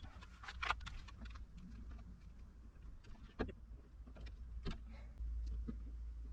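Faint, scattered clicks and scrapes of a plastic trim removal tool prying at the soft-edged inner cover of a car door, which flexes without coming free. The sharpest clicks come about three and a half and four and a half seconds in.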